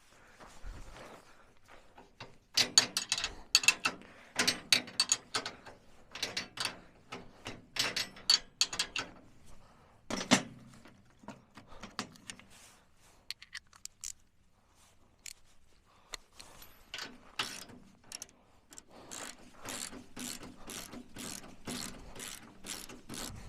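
Socket ratchet wrench clicking in repeated bursts as a bolt is turned, with short metal clinks between strokes; a lull about two-thirds through, then a steadier run of clicks near the end.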